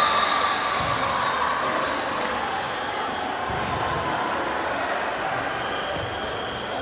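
Indoor volleyball game in a gym: sneakers squeak on the court and the ball is hit now and then, over a steady hum of voices echoing in the hall.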